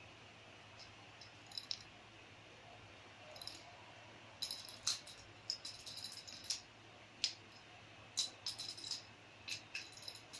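A cat's jingling toy ball with a small bell inside, rattling in scattered short bursts as it is batted and rolled, busiest in the second half.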